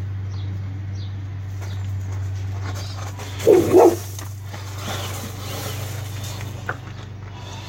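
A dog barking twice in quick succession, about halfway through, over a steady low hum.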